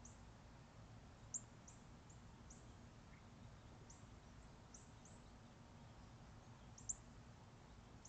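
Faint, high, thin bird chirps, each very brief and falling in pitch, scattered irregularly about ten times. Two louder ones come about a second and a half in and near the end, over a faint low steady hum.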